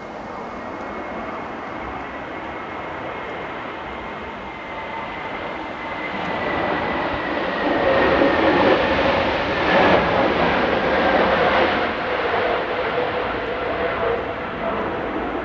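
Jet engines of an Airbus A320neo airliner flying past. The sound grows louder to a peak about two-thirds of the way through, then eases off, with a whining tone that slowly drops in pitch.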